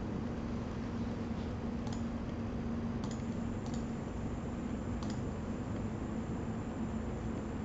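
Asus Strix GTX 980 Ti graphics card under benchmark load: a steady whoosh of fans with a thin, high-pitched coil whine that sets in about three seconds in, and a few sharp crackling pops. The whine and crackle come from the card's electrical components under load, a fault bad enough that the owner is replacing the card.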